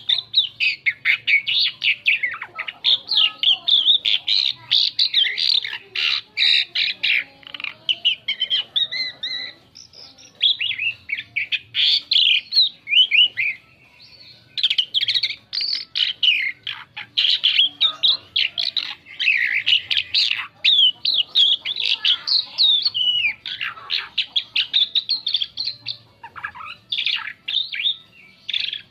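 Asian pied starling (jalak suren) singing a long, varied song: a fast run of chirps, whistles and harsh squawky notes, broken by a few short pauses.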